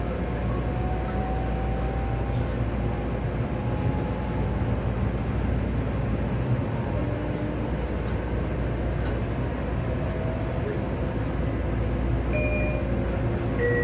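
Ride noise inside a Long Island Rail Road electric train running between stations: a steady rumble of wheels on rail. A faint whine slowly rises in pitch over the first few seconds.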